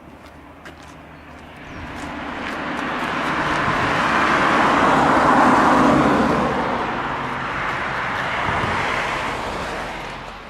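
A car passing by on a road: tyre and engine noise swells for about four seconds, peaks midway, then fades away.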